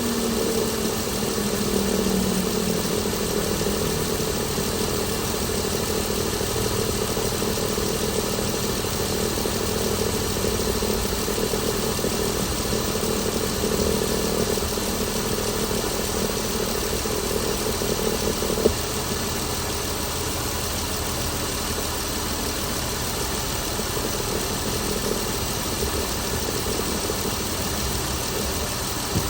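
Chrysler Pentastar 3.6-litre V6 running at idle. A tone falls in pitch over the first few seconds, and a steady whine stops suddenly with a click about two-thirds of the way through.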